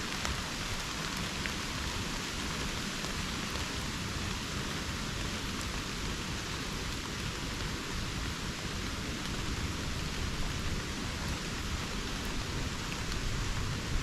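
Steady rain falling in subtropical rainforest, an even hiss with a few faint drop ticks.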